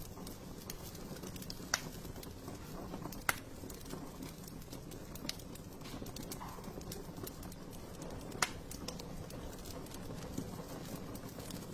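Wood fire in a fireplace crackling over a low steady rumble of the flames, with scattered small clicks and three sharper pops.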